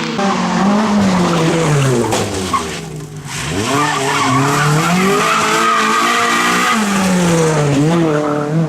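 Honda Civic rally car's engine revving hard, dropping in pitch as it slows about a second in, then climbing again as it accelerates away, with tyres squealing through the corner. The engine drops and rises once more near the end, just before the sound cuts off.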